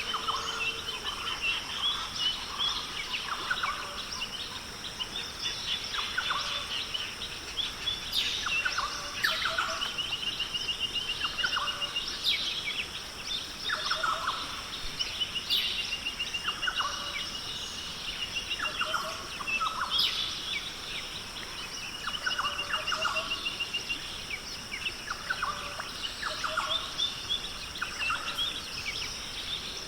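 Tropical forest chorus: a steady high insect drone, with rapid pulsed trills and short falling calls repeating every second or two.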